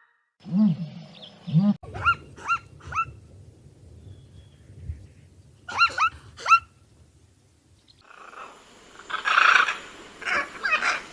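A run of animal calls: two low growls, then three short high-pitched yelps, two more yelps a few seconds later, and louder, rougher barking calls near the end.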